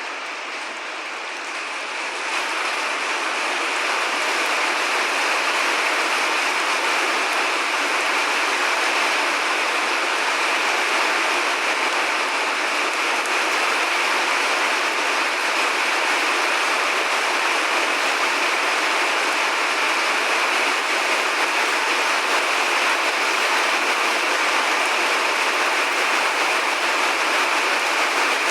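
Steady heavy rain, a dense even hiss, getting louder about two seconds in and then holding level.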